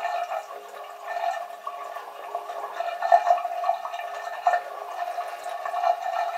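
Water running steadily from a bathroom tap into the sink, with small splashes.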